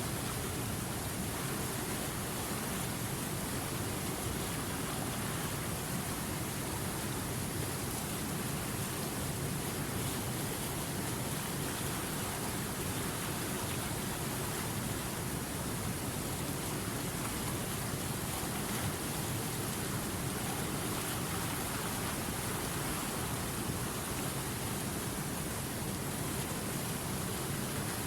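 Running river water: a steady, even rush of flowing water with no single splashes or breaks.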